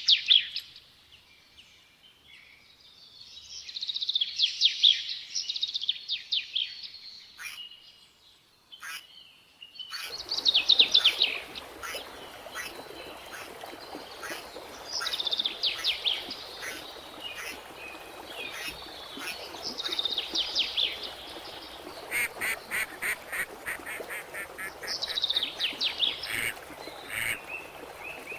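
Birds calling in repeated bursts of rapid, high chattering notes, a burst every few seconds. A steady background hiss comes in suddenly about ten seconds in.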